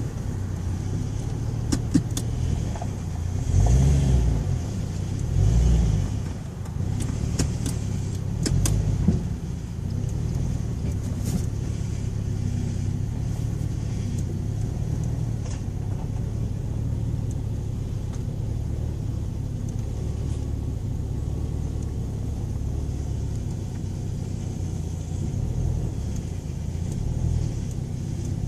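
Ford Thunderbird on the move: a steady low engine and road rumble, swelling louder twice about four and six seconds in, with a few sharp clicks and knocks in the first nine seconds.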